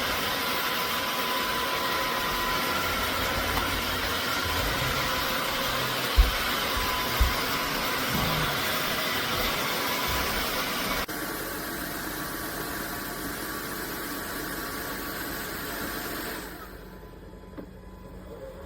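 Narwal S20 Pro cordless wet-dry vacuum mop's motor running steadily, with two low knocks about six and seven seconds in. It drops to a quieter level about eleven seconds in and again near the end.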